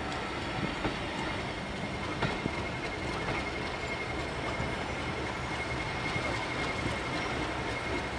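Railway passenger coaches rolling slowly past: a steady rumble of wheels on rail with a few sharp clicks as wheels cross rail joints, and a thin high wheel squeal that sets in about two seconds in and holds steady.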